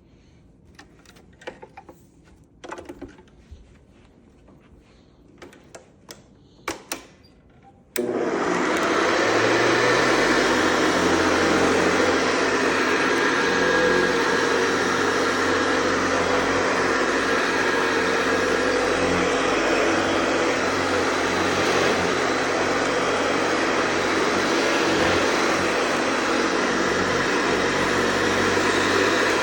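Hoover Convertible Model 584 upright vacuum cleaner: a few light clicks and knocks of handling, then the motor switches on abruptly about a quarter of the way in and runs steadily with a humming whine over a dense rush of air.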